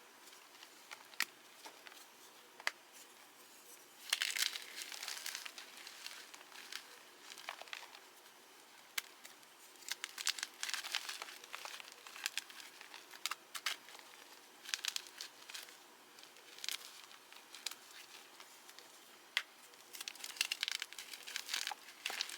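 A fresh block of Cap gym chalk being crushed, crunching and crumbling in short spells of crackle with sharp single snaps between them. The chalk crumbles easily.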